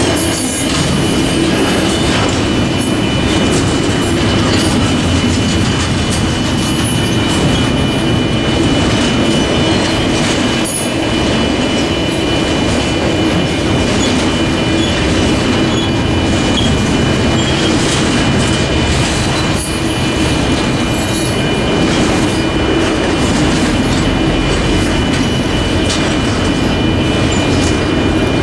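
Train cars rolling past close by: a loud, steady rumble of wheels on rail with scattered wheel clicks, and a steady high-pitched whine held throughout.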